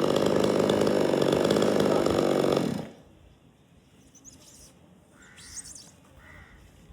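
Chainsaw running loudly for nearly three seconds, then cutting off suddenly. A few faint bird chirps follow.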